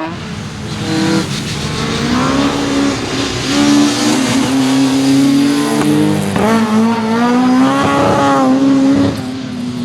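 Rally car engine running hard at high revs, its pitch rising and shifting with gear changes, including a drop and fresh climb about six seconds in.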